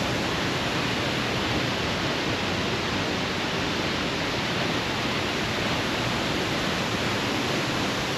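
Whangarei Falls, a waterfall: falling water making a steady, even rush of noise.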